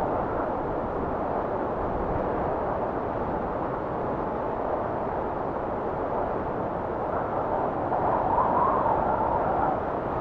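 Blizzard wind blowing as a steady rushing noise, swelling into a stronger gust about eight seconds in.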